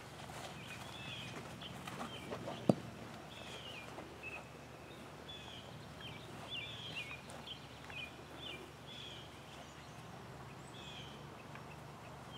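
Birds singing, short chirping phrases repeated again and again over a faint steady background noise. One sharp knock sounds a little under three seconds in.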